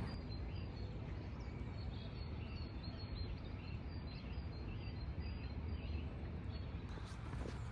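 Small birds chirping in short, repeated high notes over a steady low background rumble.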